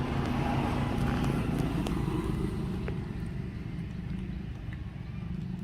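Motorbike engine running steadily, a low hum that eases off a little about three seconds in.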